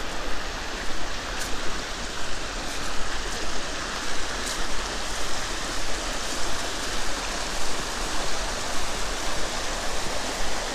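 Creek water rushing steadily over rocks, an even hiss-like noise.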